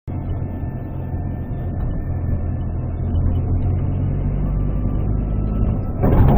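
Vehicle engine and road noise, a steady low rumble, with a sudden louder noisy clatter about six seconds in.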